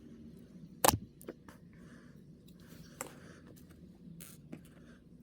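Small plastic figure parts being handled and snapped together: one sharp click about a second in, then several fainter clicks and taps, over a low steady hum.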